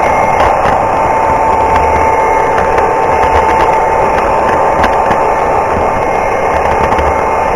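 O scale model GP9 diesel locomotive running on the layout, its diesel engine sound steady and unbroken, with a constant high whine over a low rumble.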